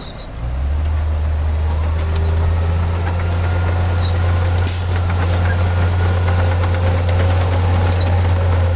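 Heavy diesel engine of earthmoving machinery running steadily with a deep, even hum, after a brief drop in level right at the start.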